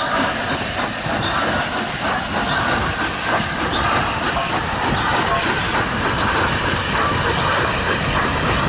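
Nevada Northern steam locomotive No. 93, a 2-8-0, letting off a steady hiss of steam.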